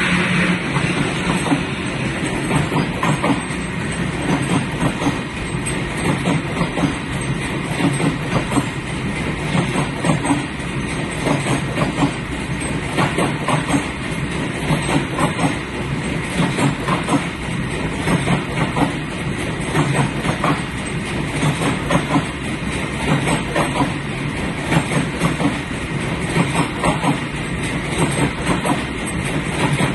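Train running along the track: a steady rumble with wheels clicking irregularly over the rail joints.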